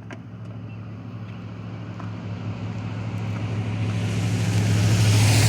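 A road vehicle approaching: a steady engine hum and tyre noise growing steadily louder as it draws near.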